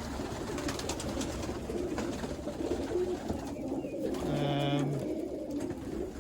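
A loft full of young racing pigeons cooing, a steady low murmur of overlapping coos, with a brief low human voice sound about four seconds in.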